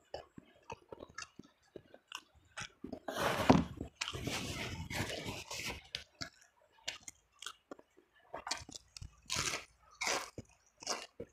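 A person chewing and crunching food close to the microphone: many short crunches and mouth clicks, with a longer, louder stretch about three seconds in and a steady run of crunching bites near the end.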